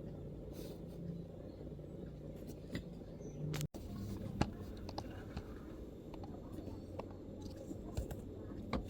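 Low steady room rumble with faint background chatter, and a few scattered sharp clicks, likely light MacBook keystrokes. The sound drops out briefly a little under four seconds in.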